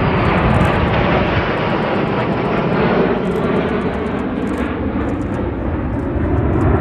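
Loud, steady engine noise of a fixed-wing aircraft flying past at an air display.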